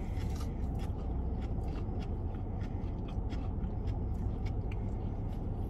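Close-up chewing and biting on fried chicken, with many small wet mouth clicks, over a steady low hum in the car cabin.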